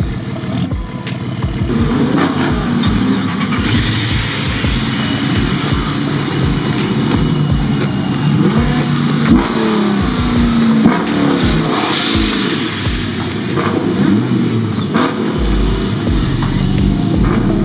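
Car engine revving repeatedly, its pitch rising and falling over and over.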